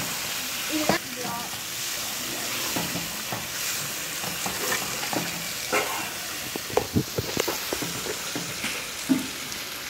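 Chicken sizzling in a wide metal pan while a spatula stirs it, scraping and knocking against the pan. There is a steady sizzle, with a quick run of sharp knocks about seven seconds in.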